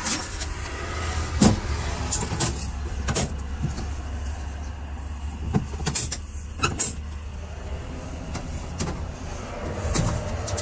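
Blue Bird Vision school bus engine idling with a steady low rumble, with scattered short clicks and knocks over it.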